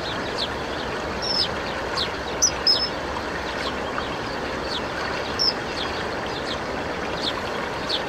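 Small birds calling in short, high, falling chirps, about two a second, with a few longer hooked notes, over a steady rush of running water.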